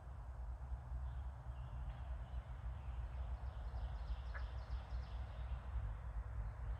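Outdoor wildlife ambience: a steady low rumble under faint, distant bird calls, with a quick run of high repeated notes around the middle.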